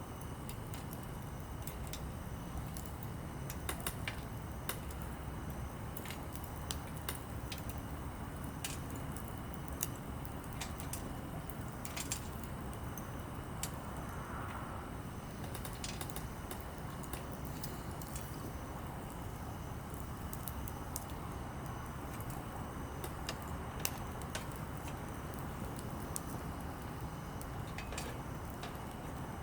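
Small campfire of softwood and hardwood firewood burning: a steady low rush of flame with scattered sharp crackles and pops throughout.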